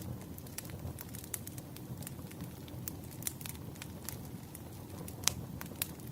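Campfire burning: a steady low rustle of flames with irregular sharp crackles and pops of burning wood, the loudest pop about five seconds in.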